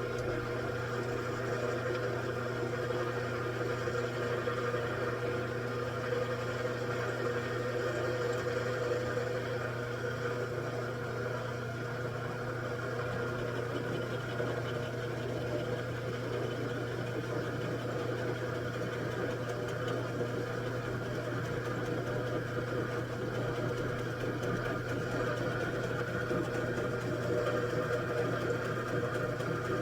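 Machine tool running steadily: an even motor hum with several constant tones above it.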